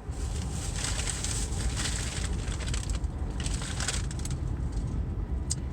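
Food packaging crinkling and rustling in several crackly bursts over a steady low rumble, with a single sharp click near the end.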